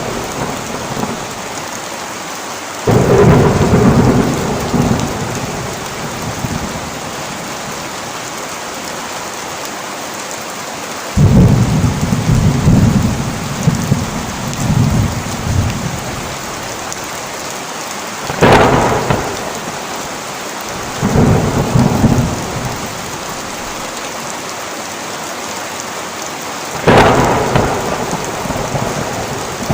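Heavy rain pouring steadily in a thunderstorm. Five peals of thunder break in, each starting suddenly and rumbling off over a second or three.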